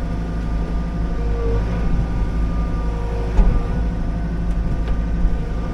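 Liugong 9051F mini excavator's diesel engine running steadily while its hydraulics work, with a single sharp knock about three and a half seconds in.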